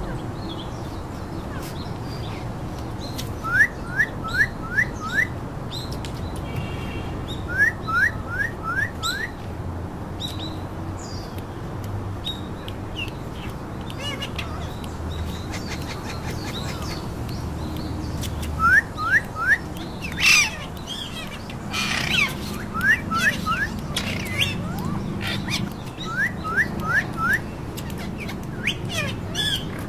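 Pet parakeets calling: runs of three to five quick, rising whistled notes repeated several times, with a couple of louder harsh squawks about two-thirds of the way through.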